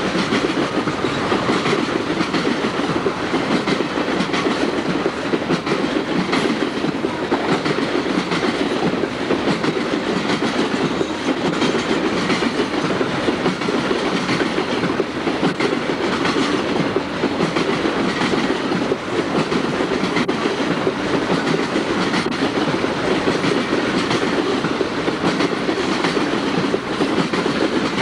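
Cars of the Tropicana orange juice freight train rolling past at steady speed: a continuous rumble with wheels clattering over the rail joints.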